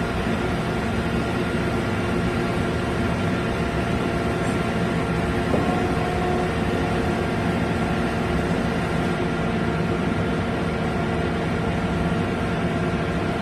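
Large CNC horizontal boring mill running steadily: an even mechanical hum with several steady tones, and a single short click about five and a half seconds in.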